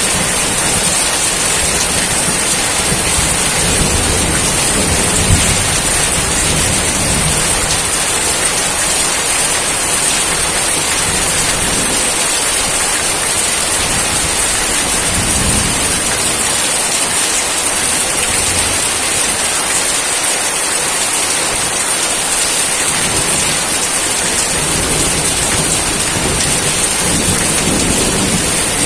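Steady rainfall making an even hiss, with low rumbles of thunder coming and going, mostly in the first half.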